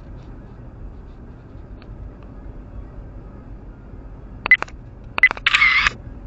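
Steady low road rumble inside a slowly moving car. Near the end come two short sharp high-pitched clicks, then a brief half-second hissy burst with a high tone in it.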